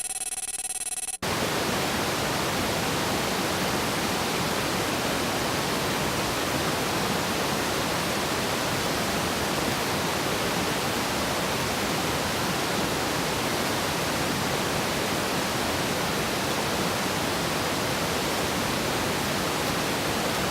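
Steady, even rushing noise with no rhythm or pitch; it sets in about a second in, after a brief quieter moment with a few faint tones.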